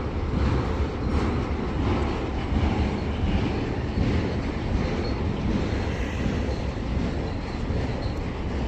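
Freight train rolling on the tracks: a steady, heavy rumble of wheels on rail.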